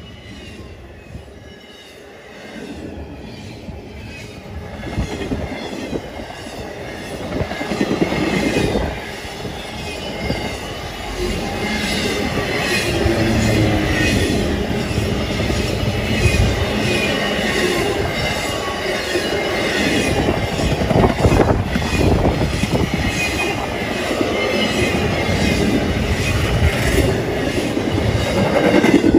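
Cars of a fast CSX intermodal freight train rolling past: the steady rumble and clatter of steel wheels on the rails, with high wheel squeal. It swells over the first ten seconds or so, then holds steady and loud.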